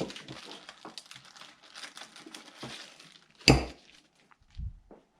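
Plastic crinkling with small metal clinks as parts are handled, then a sharp loud knock about three and a half seconds in and a duller thump a second later.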